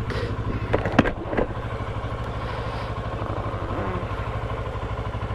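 Motorcycle engine running at a steady low beat, with a few sharp clicks about a second in.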